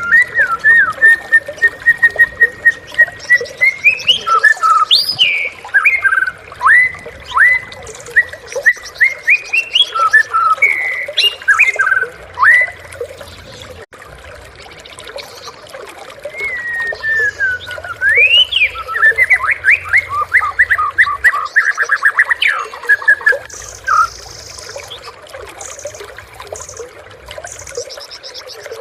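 White-rumped shama (murai batu) singing: long varied phrases of clear whistles, sharp sliding notes and fast trills. The song runs in two long bouts, pausing for a few seconds about 13 s in and falling away about 24 s in.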